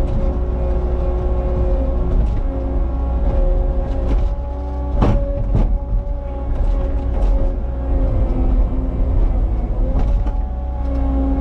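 Cat 279 skid steer's diesel engine running steadily under working load, with a steady whine on top. Two sharp knocks come about five seconds in.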